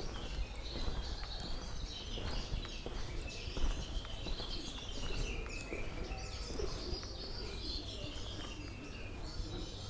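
Birds chirping and twittering without a break, a dense run of quick, high chirps, over a steady low rumble.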